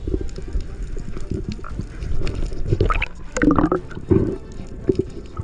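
Water gurgling and bubbling around the microphone, over a low rumble, with louder irregular gurgles about three to four seconds in.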